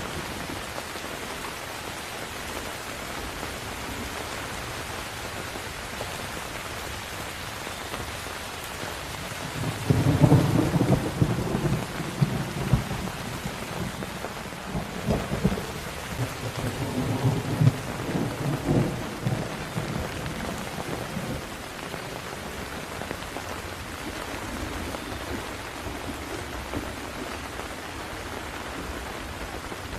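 Steady rain falling, with a long rolling rumble of thunder that comes in about ten seconds in, swells again a few seconds later and dies away shortly after the middle.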